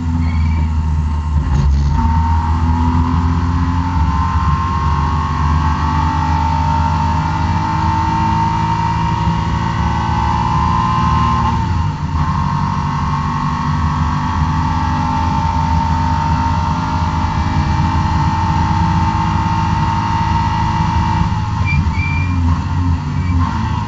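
BMW E36 M3 straight-six engine pulling hard on track, its pitch climbing slowly, with brief breaks about 2, 12 and 21 seconds in where the climb starts over. The owner says the engine is down on power from a bad engine map that makes torque crater at 5800 rpm.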